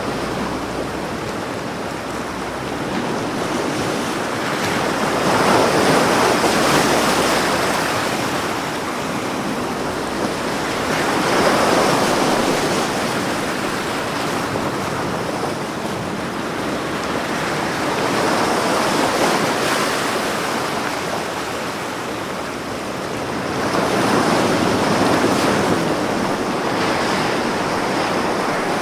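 Ocean waves breaking on a beach, a continuous wash of surf that swells and ebbs about every five or six seconds.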